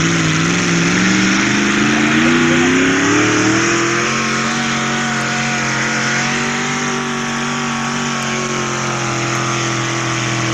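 Two-wheel-drive pickup truck engine at full throttle pulling a sled. The revs climb over the first few seconds, then hold steady under heavy load, and drop off sharply right at the end as the throttle is let off.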